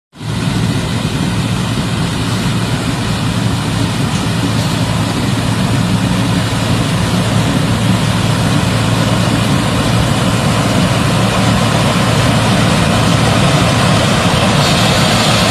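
Combine harvester running steadily: a loud, even engine drone with a strong low hum and a wide mechanical hiss over it.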